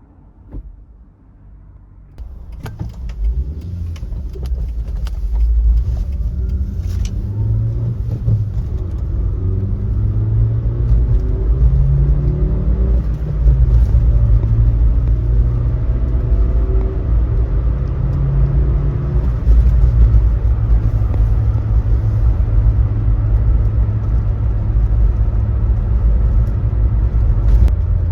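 Subaru Sambar's rear-mounted 660 cc four-cylinder engine running, a low drone that comes in after a few clicks about three seconds in, then holds with its pitch rising and falling.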